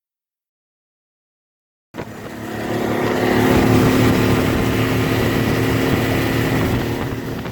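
Digital silence for about two seconds, then a motor vehicle's engine running, swelling to a steady peak and easing off slightly near the end.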